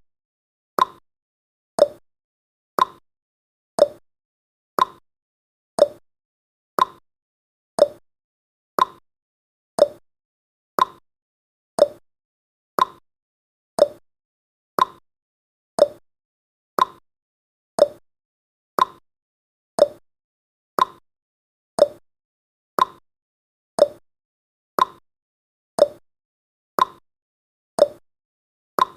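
Clock-tick sound effect of a countdown timer: short, sharp ticks, evenly spaced about once a second.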